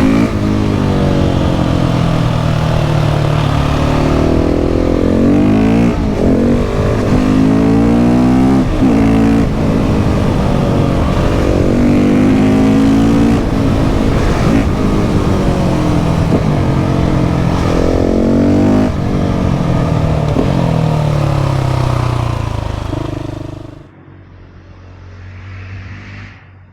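KTM 690 SMC R's single-cylinder engine through a LeoVince exhaust, accelerating hard with its pitch climbing and dropping back again and again as it shifts through the gears. Near the end the engine sound falls away abruptly, leaving only a faint sound.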